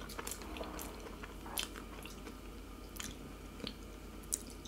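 Close-miked chewing of a mouthful of masala dosa with sambar, with several short wet mouth clicks scattered through.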